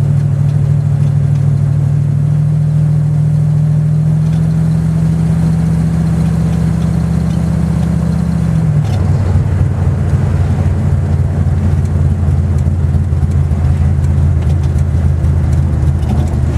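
Big-block 440 V8 of a 1971 Plymouth Scamp running steadily under way, heard from inside the cabin. Its low drone steps down in pitch suddenly about nine seconds in and carries on at the lower note.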